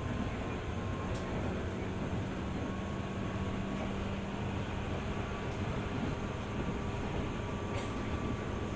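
JR 205 series 600 subseries electric commuter train running along the line: a steady rumble of wheels on rail, with a faint steady hum and a few light clicks.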